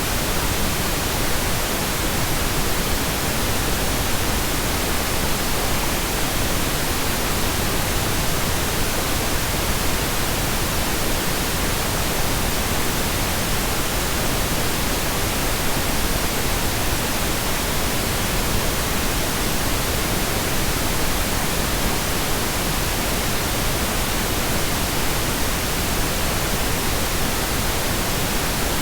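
Steady, unchanging pink noise: an even hiss spread across all pitches, with no other sound.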